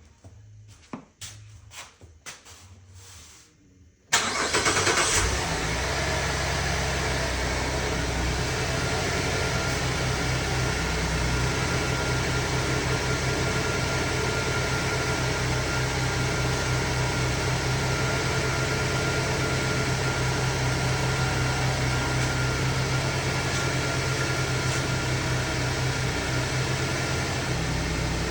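A few faint clicks, then about four seconds in a 2010 Chevy Traverse's 3.6-litre V6 starts and settles into a steady idle. The engine has stored misfire codes for cylinders 1, 3 and 5, but it is showing no current misfires.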